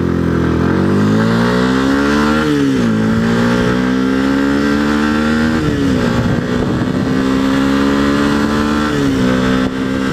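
Yamaha sport bike's engine pulling hard through the gears, its pitch climbing steadily and then dropping sharply at three upshifts, with wind rushing past.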